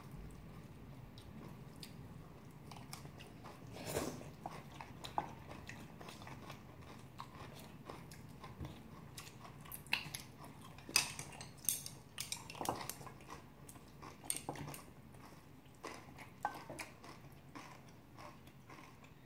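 Close-up eating sounds: chewing and crunching of young-radish kimchi bibimbap and ramen, with scattered short sharp clicks and smacks, thickest about ten to thirteen seconds in.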